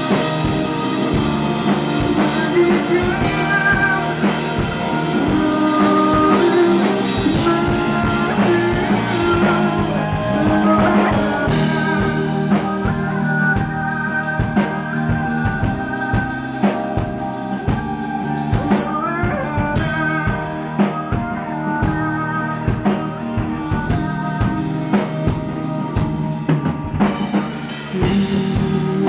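Rock band playing live: a drum kit keeping a steady beat under guitar, with a voice singing the melody.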